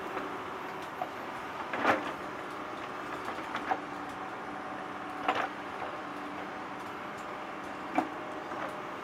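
Small electric motors of radio-controlled model construction machines running with a steady whine, broken by three sharp clacks about three seconds apart.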